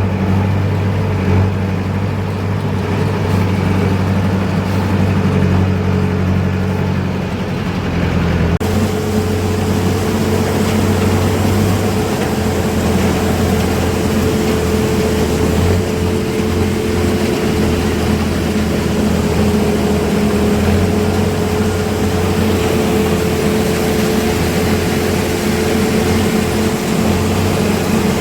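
Heavy diesel farm machinery running steadily, a sugarcane harvester and tractor at work in the cane field. About a third of the way through the sound changes abruptly, with more hiss and a higher steady tone added.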